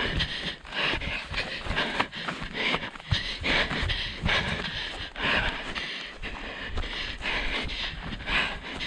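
A runner's hard panting breaths and footsteps, heard from a head-mounted camera during an orienteering run.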